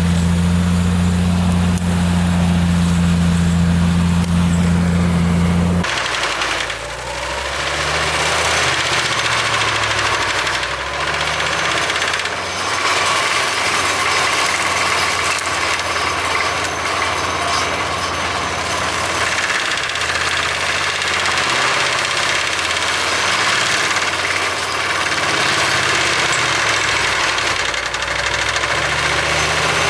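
Claas Xerion 3800 tractor running with an AHWI forestry mulcher, its engine at work. A steady low drone for about the first six seconds changes suddenly to a rougher, noisier sound, with the engine pitch shifting up and down.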